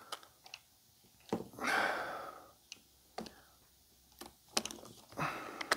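Scattered light clicks and taps of tools and small metal parts as a chainsaw is being taken apart, with a short scrape about two seconds in.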